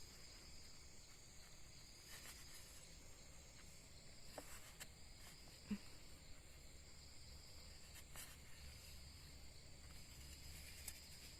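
Faint, steady high-pitched drone of an insect chorus, with a few faint short clicks scattered through it.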